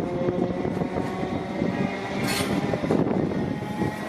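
Greater Anglia electric multiple unit passing, with a steady rumble and the rapid clatter of its wheels on the track. A brief sharp burst of high-pitched noise comes about halfway through.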